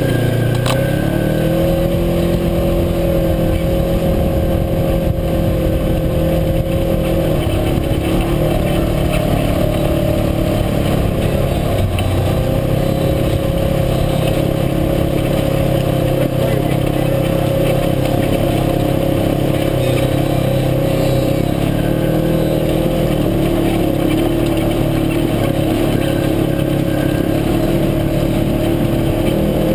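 UTV engine running steadily under way, its pitch shifting slightly up and down now and then as the throttle changes.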